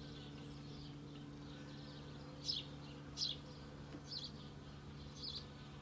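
Steady hum of honeybees flying around an open hive, with a few short bird chirps over it.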